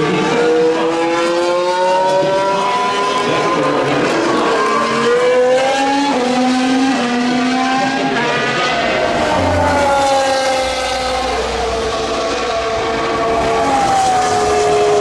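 Formula 1 cars' 1.6-litre turbocharged V6 hybrid engines running at speed, several heard at once, their pitch climbing through the gears and then falling away as they pass.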